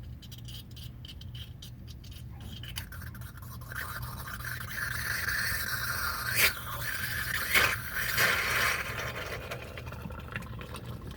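Small clicks and scrapes of a plastic fuel-line quick-connect clip being worked off a fuel filter, then from about four seconds in a loud hissing spray as fuel still under pressure escapes from the line into a drain pan. Two sharp knocks come in the middle, and the hiss dies away near the end.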